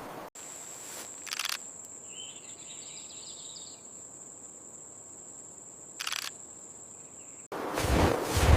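A steady, high-pitched insect trill, like crickets at night, with two brief rustles in between.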